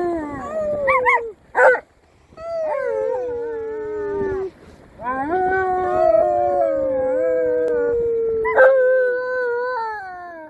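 Siberian husky and Alaskan malamute howling: a run of long howls that slide slowly down in pitch, two voices at once, with short breaks between them.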